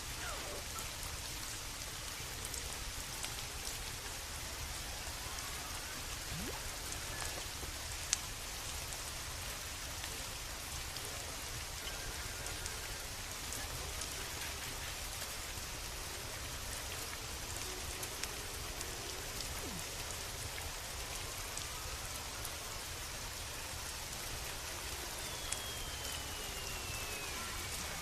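Steady rain falling and pattering on surfaces, with a few faint clicks and a faint tone sliding downward near the end.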